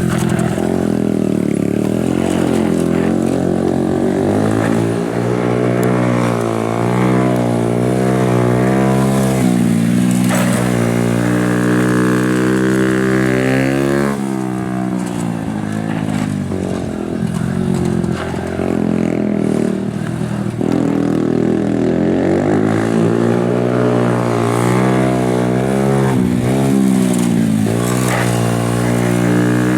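Honda Super Cub's single-cylinder four-stroke engine, exhaling through a RAIJIN aftermarket muffler, running hard on a practice lap. Its pitch climbs under throttle, drops sharply about ten and fourteen seconds in, eases off for several seconds, then climbs again.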